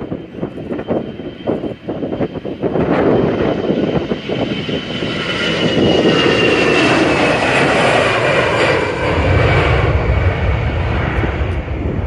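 Airbus A321ceo jet airliner taking off at full thrust, its engine whine falling steadily in pitch as it passes and a deep rumble building over the last few seconds. Wind buffets the microphone near the start.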